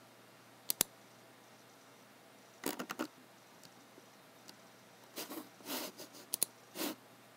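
Computer mouse and keyboard being worked: a quick double click near the start, a short run of clicks and taps about three seconds in, then a few faint ticks and a longer cluster of softer sliding sounds mixed with sharp clicks.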